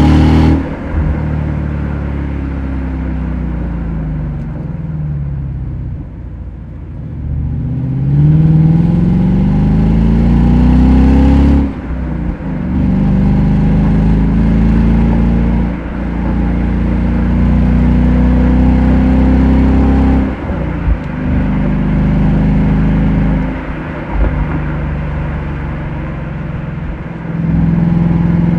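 Ford Mustang GT's V8 engine heard while driving. The engine note falls away off the throttle, then rises under acceleration. After that it runs in steadier pulls, each broken by a brief sharp dip where the driver lifts or changes gear, about four or five times.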